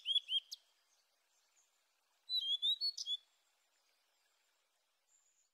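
Songbird chirping: a few quick arched chirps at the start, then a second short run of chirps a little over two seconds in.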